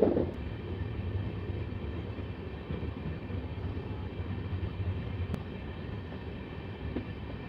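Passenger train running steadily on the track, heard from on board: a continuous low rumble of the coach and wheels, with a faint click about five seconds in.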